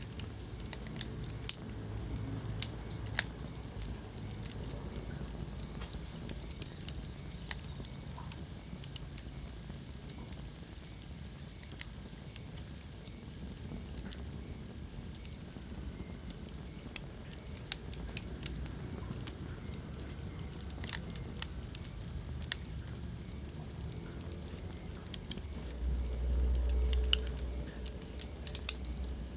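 Wood fire crackling in a fireplace: irregular sharp pops and snaps over a steady low rumble of the flames, with the rumble swelling louder for a second or so near the end.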